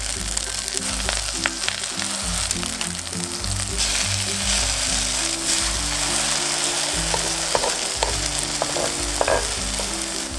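Food sizzling as it fries in oil in a pan, a steady crackling hiss, with a few small clicks in the second half.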